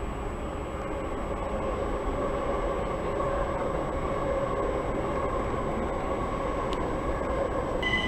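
Electric multiple-unit commuter train running alongside the platform: a steady rumble from the wheels and running gear under a held electric motor whine. There is one sharp click late on.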